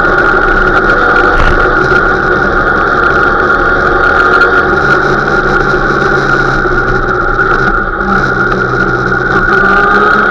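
Motorcycle engine running steadily at low revs, about 2,000–3,000 rpm, while the bike rolls slowly in traffic. The sound dips briefly about eight seconds in, and the revs rise a little near the end.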